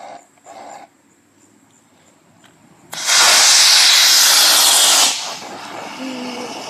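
Small rocket motor of a rocket boat igniting about three seconds in and burning with a loud, steady hiss for about two seconds before cutting out.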